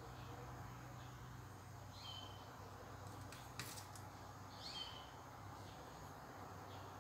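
Quiet room with a low steady hum. A bird chirps briefly twice, about two seconds in and again near five seconds, with a single light click between them.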